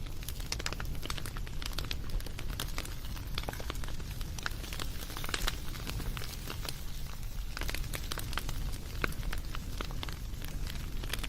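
Wood campfire crackling: dense, irregular pops and snaps over a steady low rumble of the flames.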